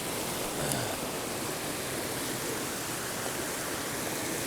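Mountain creek rushing steadily, running high after rain. There is a short click just under a second in.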